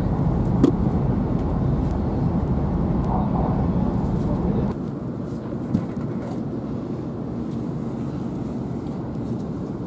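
Running noise of a passenger train heard inside the car: a steady rumble that becomes quieter about halfway through.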